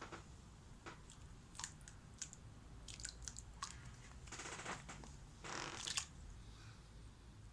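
Scattered light clicks and knocks of objects being handled, with two short scraping sounds about halfway through, each lasting under a second.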